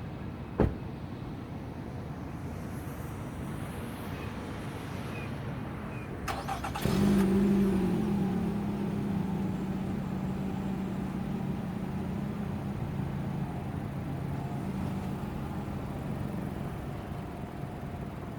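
2017 Nissan Rogue's four-cylinder engine cranking briefly and starting about six and a half seconds in, flaring to a fast idle and then settling to a steady idle. A sharp click comes about half a second in.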